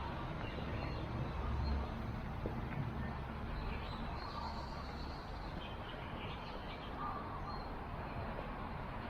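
Birds chirping now and then over a steady outdoor hiss, with a low rumble in the first couple of seconds.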